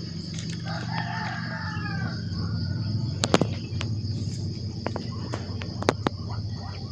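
A rooster crows once, a drawn-out call that falls slightly at its end, then several sharp clicks follow over a steady low hum and a high steady buzz.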